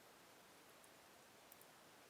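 Slow-burning wood fire in a fireplace, very faint: a soft steady hiss with a few tiny crackles, the sharpest about one and a half seconds in.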